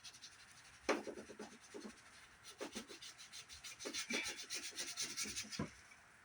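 Scrubbing on the casing of a dirt-caked CRT monitor during cleaning: quick, irregular rubbing strokes starting about a second in and stopping shortly before the end.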